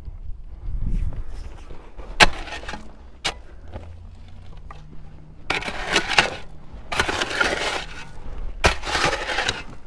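Kobelco SK55 mini excavator digging a trench: the bucket scrapes and crunches through dirt in three long bursts in the second half, with a few sharp clanks, over the low steady running of the machine.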